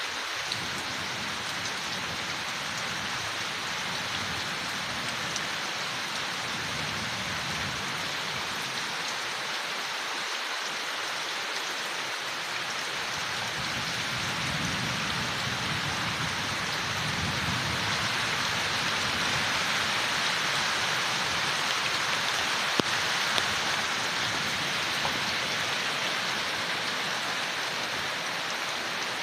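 Steady rain falling on leaves, a dense even patter. A low rumble swells and fades about halfway through, and a few single drops tick out sharply near the end.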